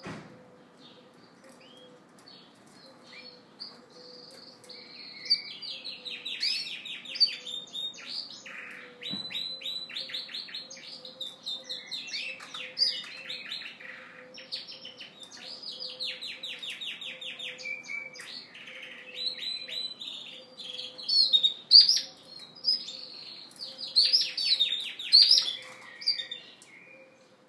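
Male Yorkshire canary singing: long, varied phrases of rapid trills and chirps, loudest in the last few seconds.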